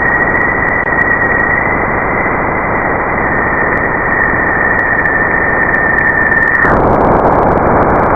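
Spacecraft radio signals converted to sound: a steady dense hiss with a high whistling tone over it. The tone stops a little before the end while the hiss continues.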